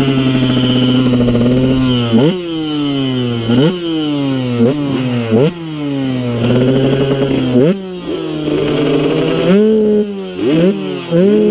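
Supermoto motorcycle engine under riding, its revs jumping up sharply and then falling away again about five times, with a short dip in loudness at each gear change, then climbing in quick steps near the end.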